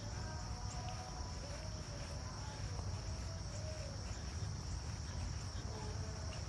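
Steady chorus of insects outdoors: a continuous high-pitched drone that holds level without a break, over a low rumble.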